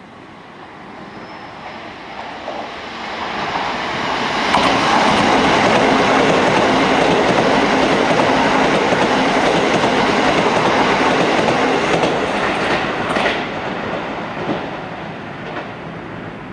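Keisei 3000 series electric train running through a station without stopping, its wheels clattering over the rail joints. The sound builds over about four seconds, holds loud for several seconds, then fades, with a few sharp clacks as the last cars pass.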